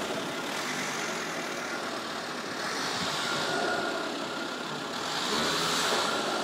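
Volkswagen TDI turbodiesel engine running steadily at idle, with a faint high whine appearing about three seconds in: the unexplained strange noise the owner is asking about.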